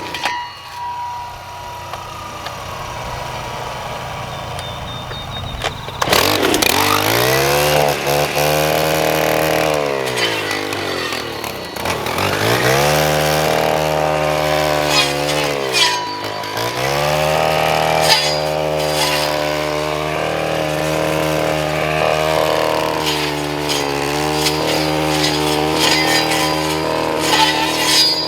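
Gas two-stroke string trimmer, run without string, cutting brush. It is quieter for the first few seconds, comes up to speed about six seconds in, drops and picks up again twice, then runs at high speed with small rises and falls.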